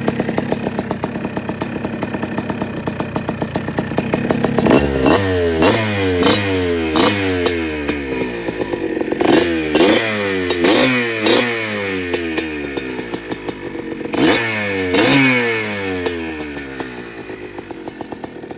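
1984 Yamaha IT200's two-stroke single-cylinder engine idling, then revved in quick throttle blips from about five seconds in, in three bursts, before settling back to idle near the end.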